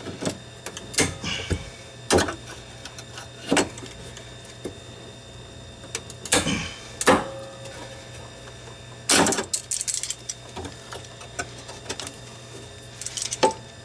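Scattered knocks, clanks and short scrapes of metal parts and hand tools being handled, with two longer scraping rasps in the middle, over a steady low hum.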